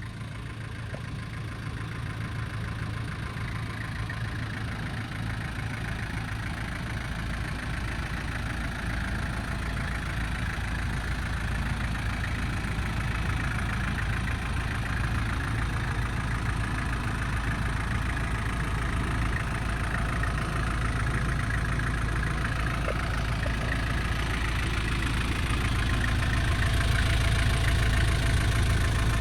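1994 Nissan Atlas truck's TD27 four-cylinder diesel engine idling steadily, growing gradually louder.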